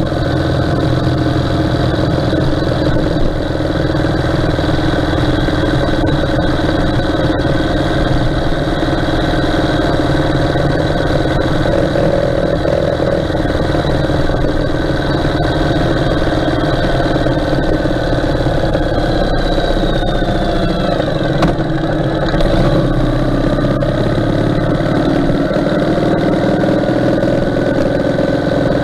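Ural motorcycle's flat-twin engine running steadily while riding along the road. About twenty seconds in, the engine note falls as the bike eases off.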